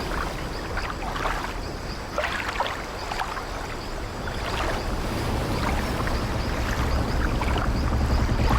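Sea water sloshing and lapping against an old wooden ship's hull, in short splashes over a low rumble of the sea that swells again in the second half.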